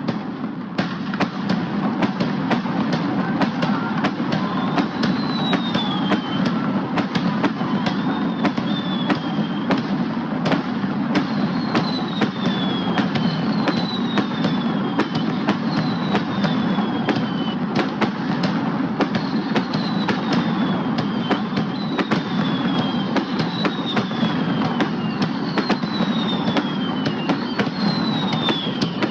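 Fireworks going off in a steady barrage, many sharp reports close together over a continuous low rumble. Short high whistles falling in pitch recur every couple of seconds through most of it.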